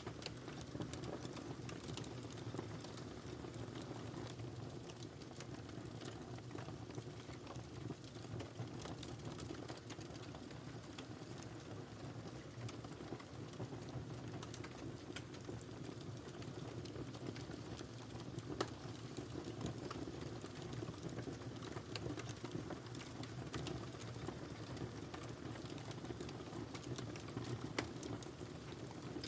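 Wood fire crackling in a fireplace: a steady low rumble of burning, dotted with irregular small crackles and an occasional louder pop.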